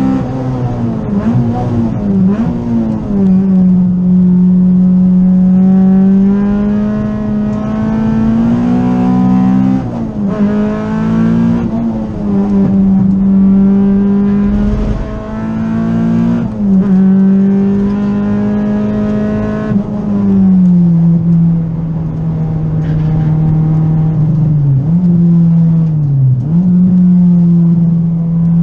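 Honda B18C Type R 1.8-litre four-cylinder VTEC engine of an EG Civic, heard from inside the cabin while being driven hard on a race track. It is held at high revs with a steady tone, dipping sharply and picking up again several times through gear changes and corners.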